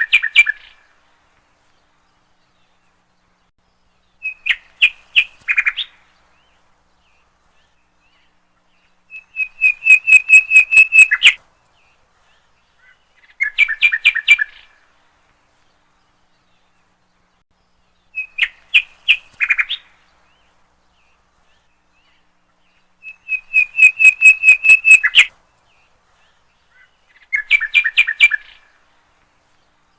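Songbird song: short phrases of rapid, high chirps, a phrase every four or five seconds with silence between. The same three phrases come round again about every fourteen seconds, a looped recording.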